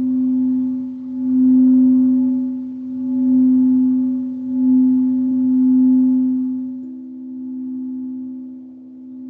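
A singing bowl sustaining one steady, nearly pure tone that swells and fades in slow pulses about every one and a half to two seconds. A second, slightly higher tone joins near the end.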